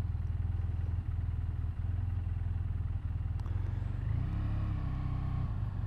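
BMW F800ST motorcycle's parallel-twin engine running steadily near idle in slow traffic. About four seconds in, a faint whine joins for a second or so.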